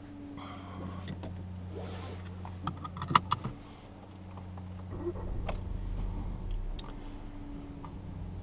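Audi A3 Sportback's 1.4 TFSI four-cylinder turbo petrol engine running steadily, heard from inside the cabin, with a deeper low rumble from about five seconds in. A few sharp clicks come around three seconds in.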